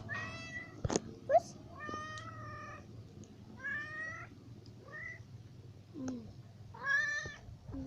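A kitten meowing repeatedly, about five separate calls a second or so apart: the crying of a kitten left without its mother.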